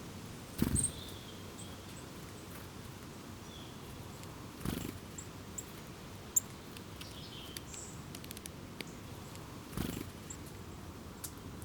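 Small wild birds giving brief, high, scattered chirps and short whistled calls. Three short rustles about five seconds apart are the loudest sounds.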